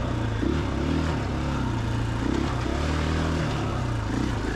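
2021 KTM 500 EXC-F's single-cylinder four-stroke engine running while the dirt bike is ridden, its pitch stepping up and down several times as the throttle is worked.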